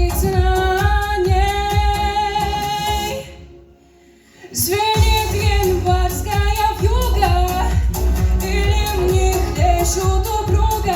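A woman singing a Russian song over a backing track with a steady beat; the music drops away almost to silence for about a second near the middle, then resumes.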